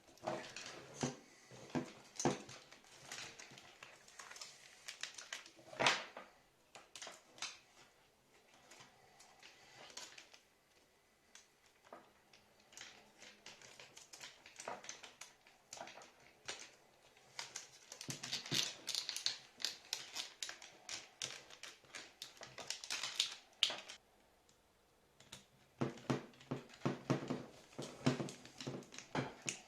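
Irregular clicks, taps and rustles of the plastic parts of a SteelSeries Siberia V2 headset earcup being handled and fitted back together by hand, with busier runs of clicking past the middle and near the end.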